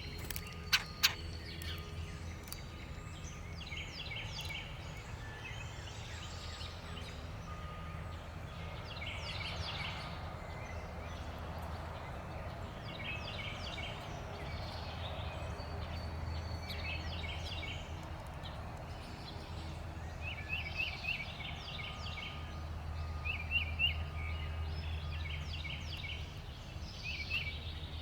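Backyard songbirds chirping in short repeated bursts every few seconds, over a steady low rumble of background noise. Two sharp taps sound about a second in.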